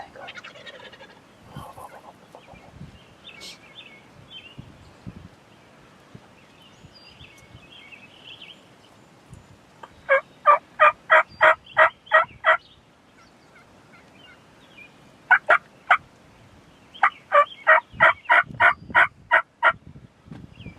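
Wild turkey yelping: three runs of loud, evenly spaced yelps at about four a second. The first run, near the middle, has about nine notes. Two lone notes follow, then a run of about eleven near the end.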